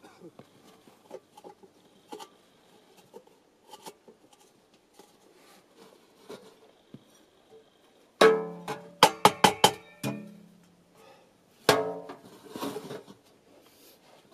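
Sheet-metal tent stove and stovepipe being handled: faint scattered clicks, then a loud run of metallic clanks with a ringing tone about two-thirds of the way in, and one more ringing clank a little later.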